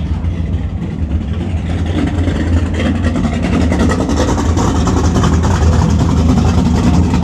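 A car engine running with a steady low rumble, getting somewhat louder about two seconds in.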